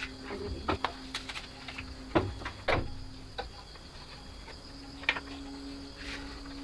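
A handful of sharp clicks and knocks, clustered in the first three seconds with one more about five seconds in, over a faint steady hum.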